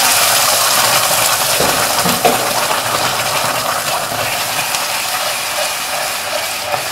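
Wet blended chili spice paste sizzling loudly in hot oil in a wok while a spatula stirs and scrapes it; the sizzle slowly dies down, with a sharp spatula knock about two seconds in.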